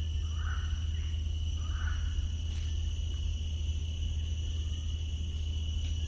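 Steady insect chorus of crickets or cicadas, several high steady tones at once, over a constant low rumble. Two short calls stand out in the first two seconds.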